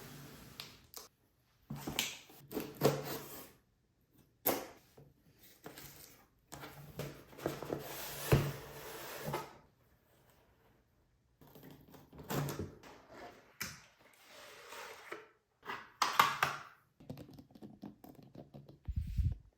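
Product packaging being handled and opened by hand in an unboxing: irregular clicks, knocks and rustles in stop-start bursts, with a sharper knock about eight seconds in.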